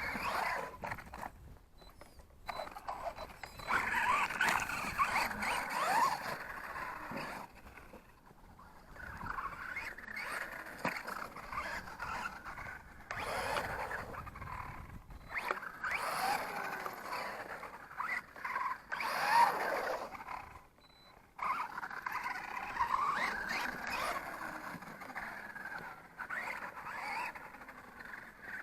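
Reely RC monster truck's electric motor and drivetrain whining in several bursts of a few seconds each. The pitch wavers up and down as the throttle is worked, with short pauses in between.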